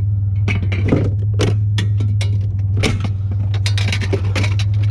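Metal scrap parts being pulled off and handled, giving a quick, irregular run of clinks and knocks over a steady low hum.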